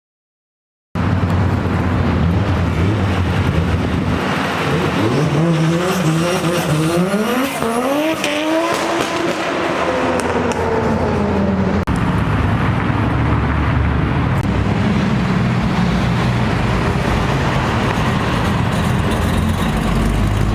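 Loud car engine: the revs climb in several quick steps about five to eight seconds in, then fall away into a steady deep rumble.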